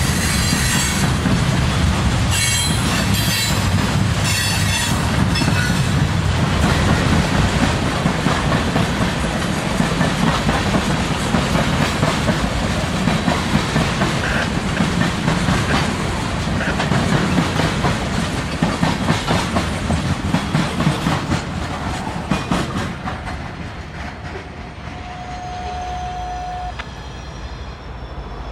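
Freight train cars rolling past with wheels clacking over rail joints and a high wheel squeal in the first few seconds. The noise drops away after about 22 seconds.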